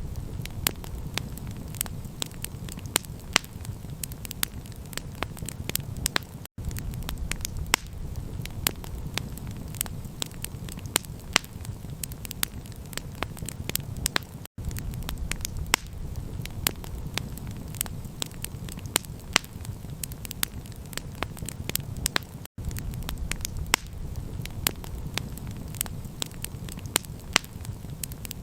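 Campfire crackling with dense, irregular pops over a steady low rumble. The sound cuts out completely for an instant three times, about eight seconds apart, like the seams of a repeating loop.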